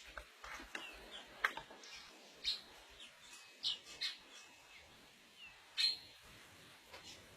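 Bird chirping: short, sharp high-pitched chirps at irregular intervals, a few of them brief downward-sliding notes.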